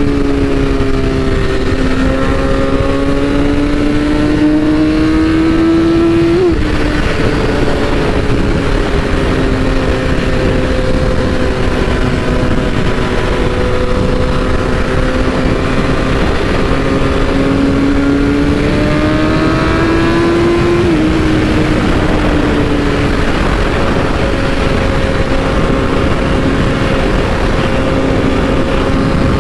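BMW S1000RR's inline-four engine pulling steadily on the road. Its pitch climbs slowly, then drops sharply at gear changes about six and a half seconds and twenty-one seconds in.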